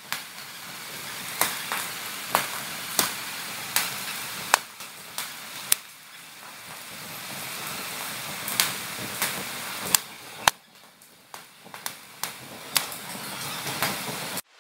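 Wood campfire burning under a flat cooking rock, crackling with irregular sharp pops over a steady hiss. The sound drops out briefly about ten and a half seconds in.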